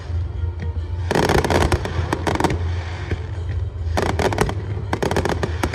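Fireworks bursting in rapid volleys of crackling bangs, one dense cluster about a second in and another about four seconds in, over a steady low rumble.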